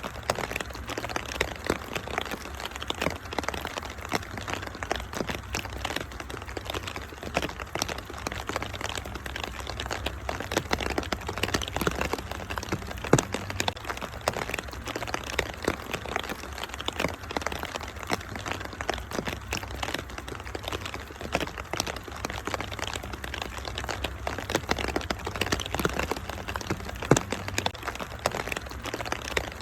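Wood fire crackling in a fireplace, with frequent sharp pops and snaps over a steady hiss of rain and a low rumble.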